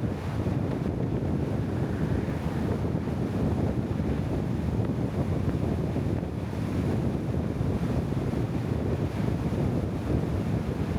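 Steady low rushing noise of wind buffeting the microphone, with no clear engine tone or distinct events.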